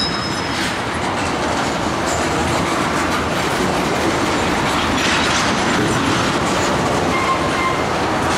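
Tank cars of a freight train rolling past at steady speed: steel wheels clattering over the rail joints in a continuous rumble, with a few brief faint high squeals.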